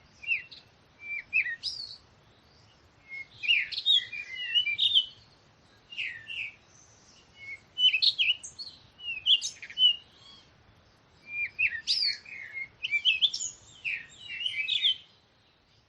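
Songbirds singing: bursts of quick, high chirps and twittering trills, with short pauses between phrases.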